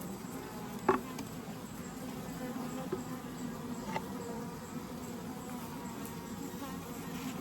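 Honeybees buzzing in a steady, dense hum over an opened Layens horizontal hive. A sharp knock sounds about a second in, with a lighter tick a few seconds later.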